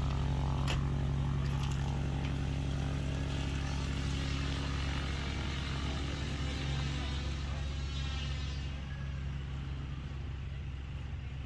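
Small propeller plane's piston engine running steadily, its higher sound easing off after about eight seconds.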